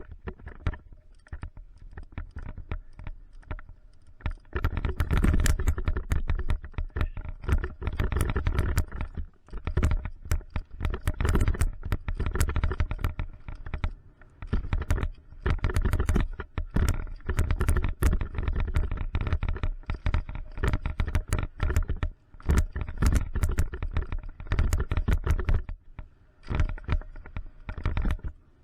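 Mountain bike descending a dirt trail: tyres rumbling over the ground while the chain and frame rattle and clatter over bumps. It is quieter at first and gets much louder about four to five seconds in, with a few short lulls.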